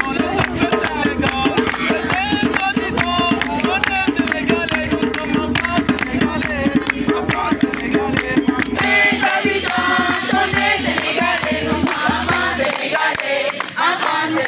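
A group of voices singing a chant together over a fast percussive beat; about nine seconds in, the deep bass drops away and the voices come forward.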